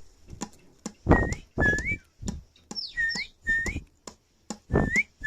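Whistled melody of short notes, each sliding up at its end in pairs, over a rhythmic percussive beat of clicks and knocks.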